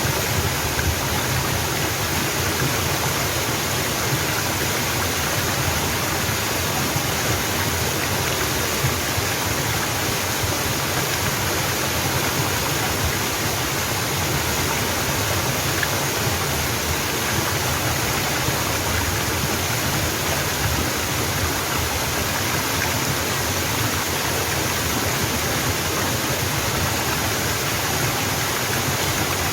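Small mountain waterfall, water pouring and splashing steadily over rocks in an unbroken rush.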